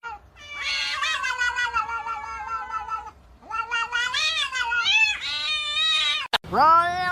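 A cat giving long, drawn-out meows: one long call, then a second whose pitch wavers up and down. Just after six seconds a sudden break cuts in, and another long meow starts at once.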